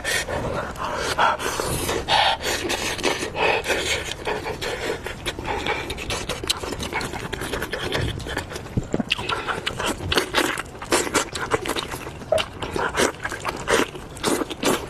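Close-miked mukbang eating of hot lamb offal: irregular wet chewing, smacking and slurping with breaths between mouthfuls.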